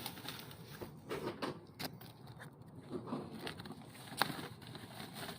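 Faint handling noise: scattered soft clicks and rustling over a quiet background, the sharpest click a little past four seconds in.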